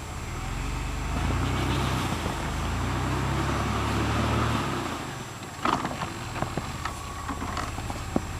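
Car engine revving hard while a drive wheel spins uselessly in deep snow, the car stuck. The revs climb in two steps, then drop away about five seconds in, followed by a few sharp clicks.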